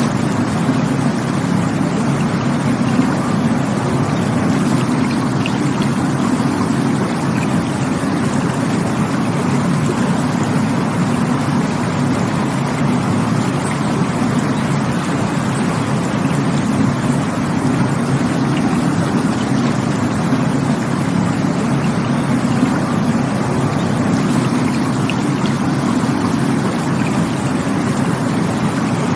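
Rushing water, a steady, low, unbroken rush with no change in level.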